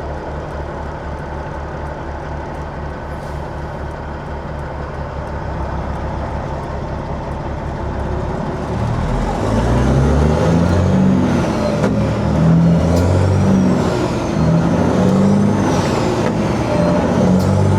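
Peterbilt 379's diesel engine running steadily at low revs, then from about nine seconds in getting louder, its revs rising and falling repeatedly as the truck pulls away and works up through the gears.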